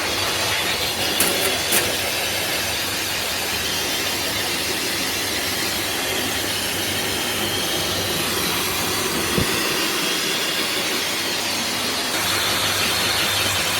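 Self-service dog-wash blow dryer blowing air steadily, a continuous rushing hiss, getting a little louder near the end.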